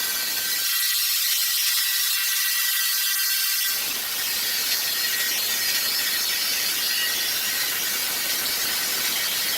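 Sawmill machinery running, a steady high-pitched mechanical clatter and hiss; for about three seconds near the start the lower part of the sound drops out, leaving it thin.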